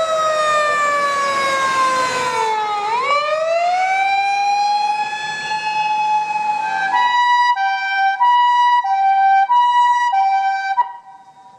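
Japanese emergency vehicle's electronic siren. It wails, sliding down and then back up in pitch, then switches about seven seconds in to a two-tone hi-lo pattern. It cuts off shortly before the end.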